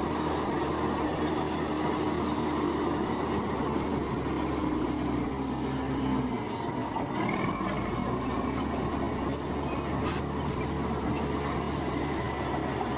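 Komatsu crawler bulldozer working: diesel engine running steadily under a low hum, with steady whining tones and metallic squeal and rattle from the tracks.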